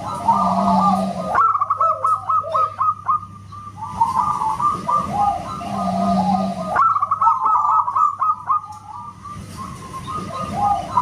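Zebra dove (perkutut) cooing loudly: rapid runs of short coo notes, the same phrase repeating about every five seconds as from a looped recording, over a steady low hum.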